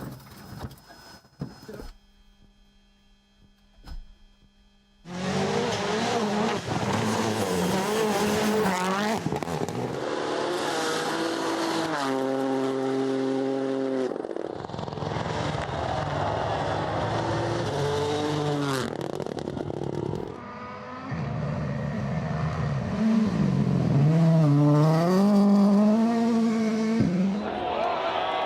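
Rally car engines at high revs, the pitch climbing and dropping again and again as they change gear, with a stretch of rushing tyre and gravel noise in the middle. The first few seconds are quiet before the engine sound comes in.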